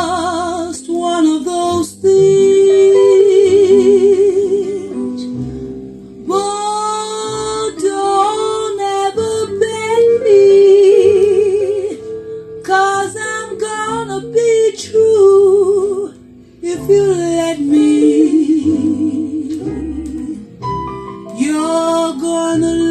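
Female jazz vocal singing a slow ballad over instrumental accompaniment, with a wide vibrato on long held notes and short breaks between phrases.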